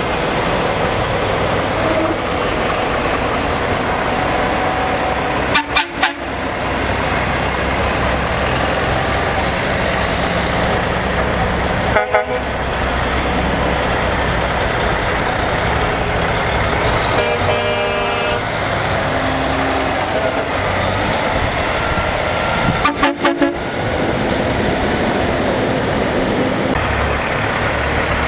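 Heavy trucks driving past with their diesel engines running steadily, and a truck air horn sounding for about a second and a half roughly two-thirds of the way through.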